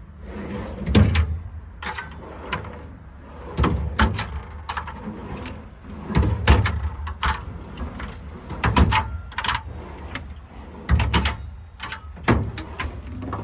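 Metal drawers and compartment doors of a truck's service body being handled: an irregular series of clunks, clicks and rattles, with a few louder bangs.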